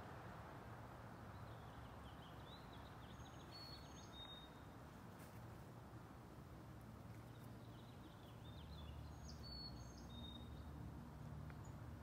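A songbird singing the same short, high song twice, several seconds apart, faint over a steady low background rumble.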